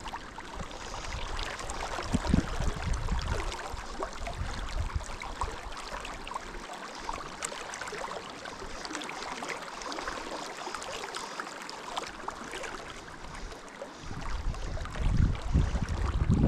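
Steady rush of river water flowing over stones, with low gusts of wind on the microphone about two seconds in and again near the end.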